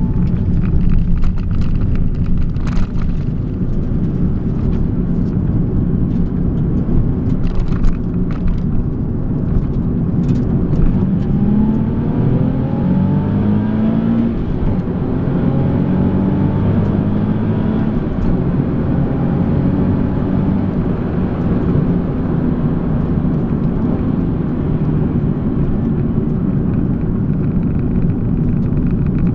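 Nissan 370Z's 3.7-litre V6, heard from inside the cabin over steady road rumble. About ten seconds in, the engine note climbs, drops at each upshift and climbs again several times as the car accelerates through the gears, then settles into an even cruise.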